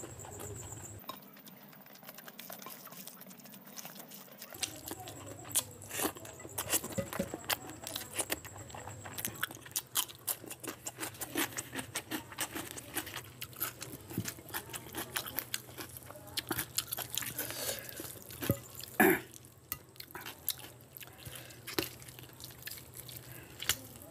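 Close-up eating sounds of curry, rice and chicken eaten by hand: chewing and wet mouth smacks in a steady run of short clicks, with one louder click about three-quarters of the way through.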